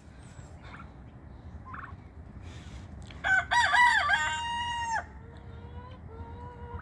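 A rooster crowing once, about three seconds in: a broken, rising start, then a long held note that cuts off suddenly, followed by fainter hen-like calls.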